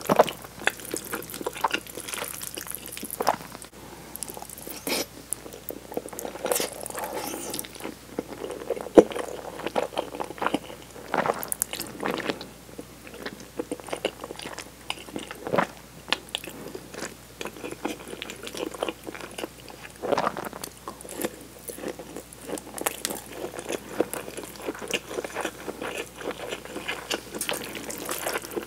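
Close-miked wet chewing of tomato cream spaghetti, with irregular mouth smacks and clicks. Now and then a metal fork clinks in the ceramic bowl as it twirls the noodles.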